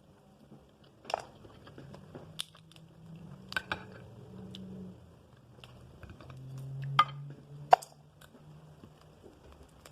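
Someone eating crab close to the microphone: chewing, with about six sharp cracks of crab shell being bitten or broken, the loudest two near the end.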